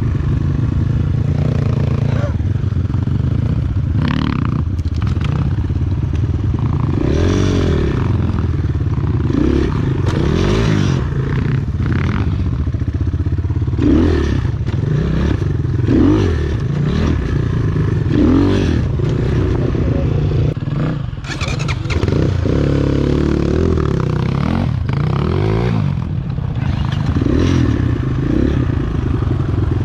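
Enduro motorcycle engine running under load, its revs repeatedly rising and falling every couple of seconds as the throttle is worked, with intermittent clatter and knocks over rough ground.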